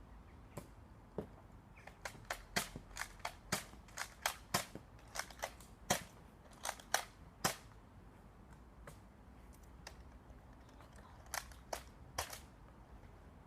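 Nerf dart blasters firing: a quick, irregular string of sharp snapping shots in the first half, then a brief second flurry of a few more shots near the end.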